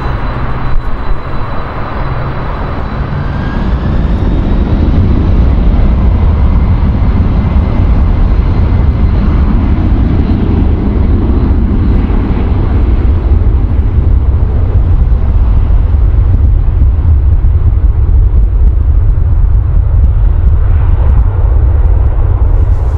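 Jet airliner engines running at high power, a loud deep rumble that builds about four seconds in and then holds steady.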